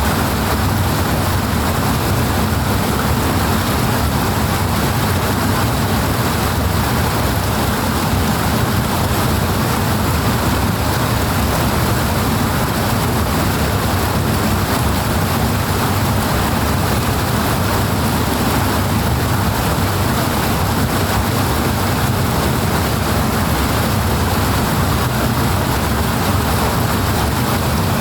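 Fast-flowing water rushing steadily and powerfully, an even, unbroken roar with no separate splashes or drops standing out.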